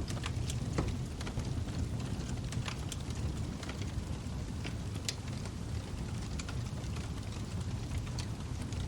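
Log fire burning in a fireplace: a steady low rumble of flames with frequent sharp crackles and pops from the burning wood, the loudest pop about five seconds in.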